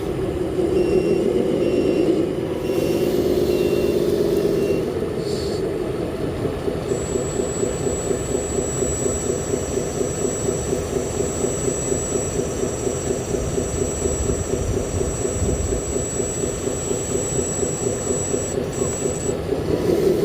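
RC 8x8 Scania cab-over dump truck running with an engine sound that pulses evenly, about four beats a second. It is louder for the first few seconds, when a run of short high beeps sounds. From about seven seconds until shortly before the end a thin, steady high whine runs over it.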